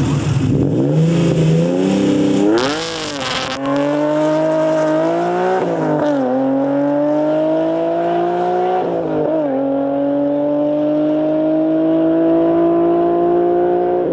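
Car engine accelerating hard through the gears: the pitch climbs steadily, falls sharply at upshifts about six and nine seconds in, then climbs again, after a short rev blip near the start.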